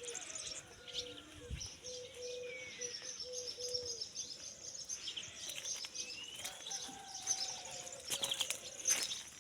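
Several birds chirping and calling, with a low note repeated several times over the first few seconds.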